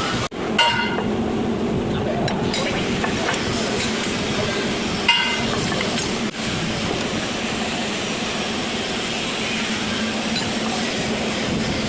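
Metal parts clinking twice, with a short ring each time, against a steady mechanical background noise.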